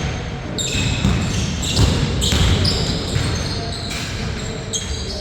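Pickup basketball in play: a basketball bouncing on the court, with sneakers squeaking in many short, high squeaks as players move.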